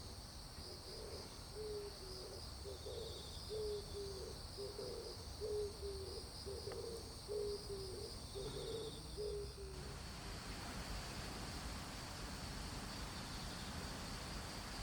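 A low hooting call in short two-part notes, repeated about once a second for some nine seconds over a steady high chorus of crickets and other insects. The calls stop abruptly about two-thirds of the way through, where the background turns to an even hiss.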